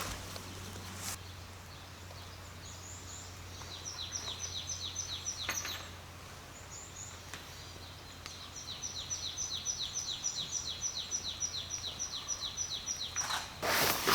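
A small songbird singing rapid trills of short, high, down-slurred notes, about five a second: a short run a few seconds in, then a longer one later.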